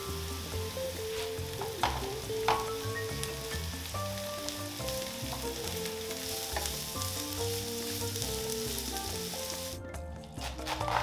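Vegetables sizzling in olive oil in a frying pan as diced bell pepper is added to sautéing onion and carrot and stirred with a wooden spatula, with two sharp clicks about two seconds in. Near the end the sizzling stops suddenly and a knife cuts into a head of cabbage on a wooden cutting board.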